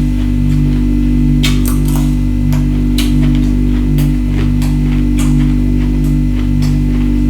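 Ice crunching between teeth: sharp, irregular crunches about once or twice a second over a loud, steady low hum.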